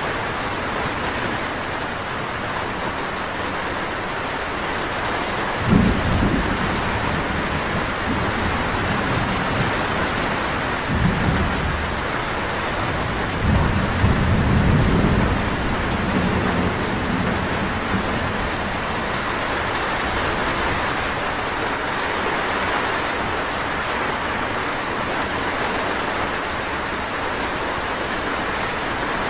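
Steady, even rainfall hiss. Low rumbles break in about six seconds in, again around eleven seconds, and a longer one from about thirteen to sixteen seconds.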